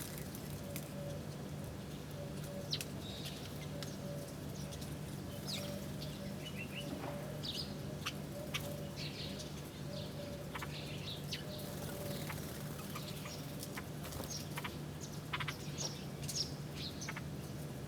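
Several birds chirping in short, scattered high calls, some in quick runs, over a steady low hum.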